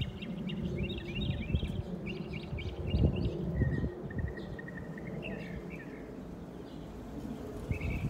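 Several songbirds chirping and calling in quick series of short notes. About halfway through, a lower, even trill comes in, and near the end there is another fast run of chirps. A low rumbling noise runs underneath, louder in the first few seconds.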